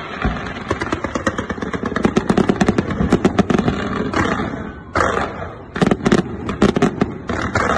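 Fireworks going off: a dense, rapid crackle of many small reports for about the first four seconds, then a run of louder separate bangs from about five seconds in.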